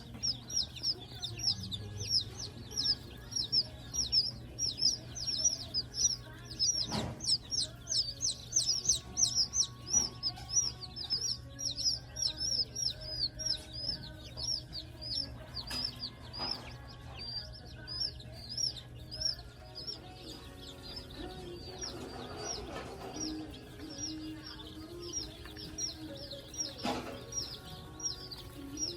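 Baby birds peeping continuously, a rapid stream of short high chirps several a second, thickest in the first half, over a steady low hum with a few sharp clicks.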